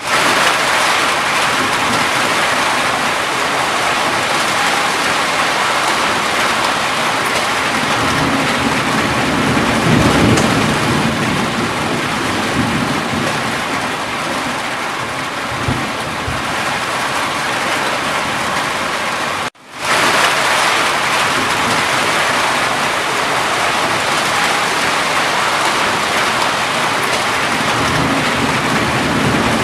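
Steady heavy rain falling, with low rumbles of thunder swelling up about ten seconds in and again near the end. The sound cuts out for an instant about two-thirds of the way through.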